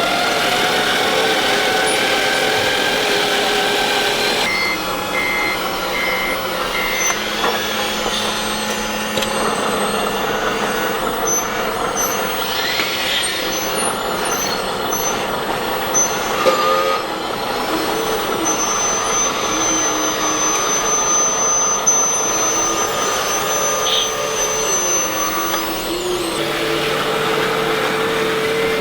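Sound modules of radio-controlled model trucks and construction machines, playing truck engine sound with reversing beeps: a run of four beeps about five seconds in, more short high beeps later, and a long high tone near the middle.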